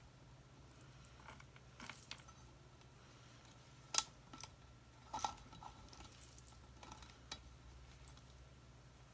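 Faint handling of craft materials: scattered small clicks, taps and rustles, with a sharp click about four seconds in and a few more just after five seconds, over a low steady hum.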